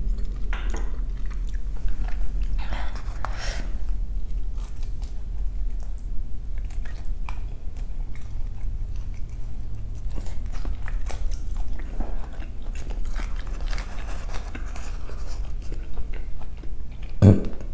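Close-miked eating: a person biting and chewing food, with wet mouth clicks and smacks through the whole stretch, and one louder short low sound near the end.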